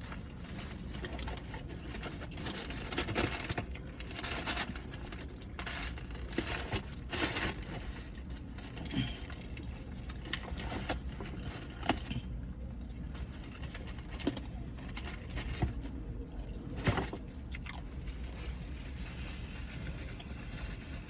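Person eating fried chicken: chewing and crunching, with scattered short clicks and crackles from handling the food.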